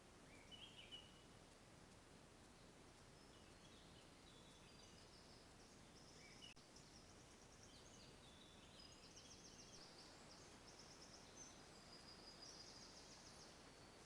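Faint songbirds singing in woodland: scattered chirps and several short, rapid trills, more of them in the second half, over a steady low hiss.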